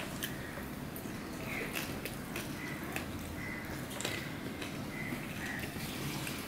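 Close-miked mouth sounds of a person eating rice with fish by hand: chewing and wet lip smacks as many short clicks, with fingers mixing rice on a steel plate near the end.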